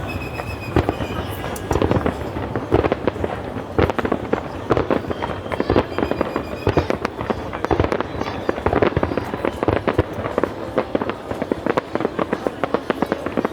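Fireworks display: a dense run of sharp bangs and crackles, several a second, going on without a break.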